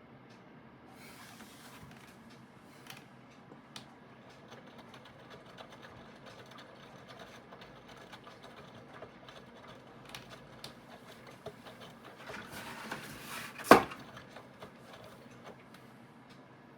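Aidoo 1 kg mini washing machine running its wash cycle: a low steady hum from its direct-drive motor with irregular small clicks and rattles, and one loud clunk near the end.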